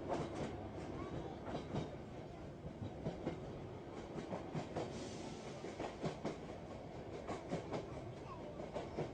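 A train running along the track: a steady rumble with irregular clicks and knocks from the wheels over the rails.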